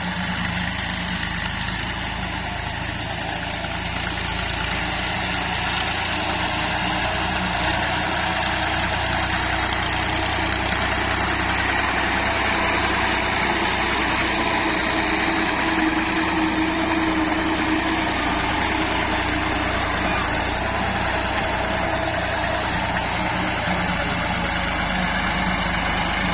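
Tractor's diesel engine running steadily, getting a little louder over the first few seconds.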